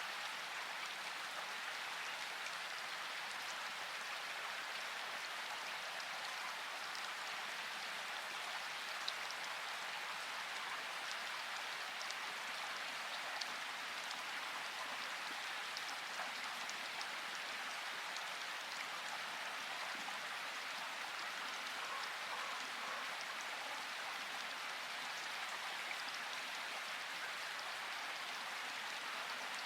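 Steady rain falling, an even hiss with the odd sharper tick of a single drop.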